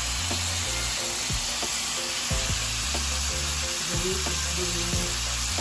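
Cubes of beef frying in salted butter in a pan, a steady sizzling hiss, with background music underneath.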